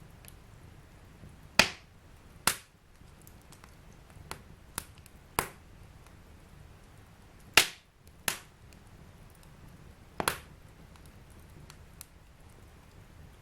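Fire burning in a fireplace, crackling: about nine sharp, irregular pops, two of them much louder, over a soft low hiss of the flames.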